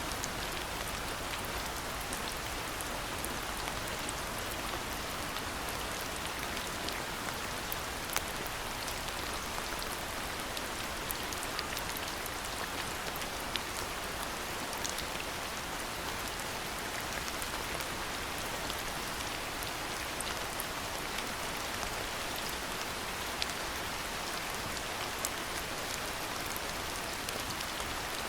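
Steady rainfall, an even hiss, with single sharper drops ticking now and then.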